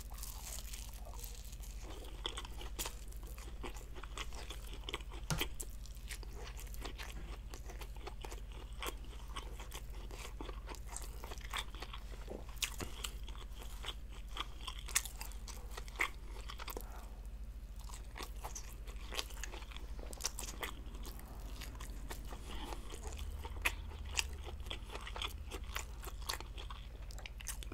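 A person chewing a mouthful of honeycomb tuna-steak sandwich close to the microphone, with many small, sharp mouth clicks throughout.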